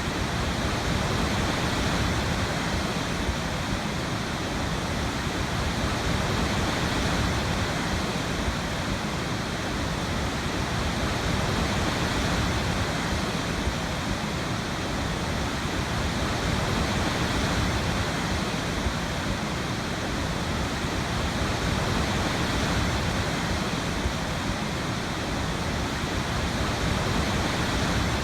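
Waterfall: water pouring steadily, a dense even rush with slow, gentle swells in level.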